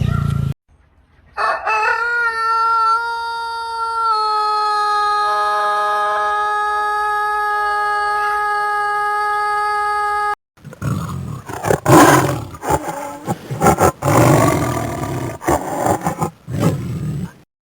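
A rooster crowing: one very long, steady crow held for about nine seconds. It is followed by a stretch of loud, irregular rough calls and noises.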